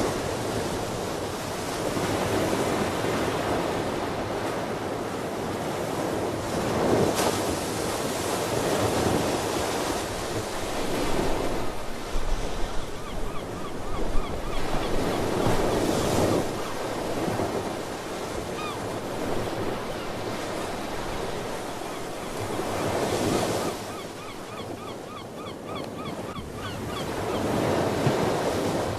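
Ocean surf: waves break and wash in every few seconds over a steady rush of water. From about halfway on, seabirds call faintly in quick runs of short chirps.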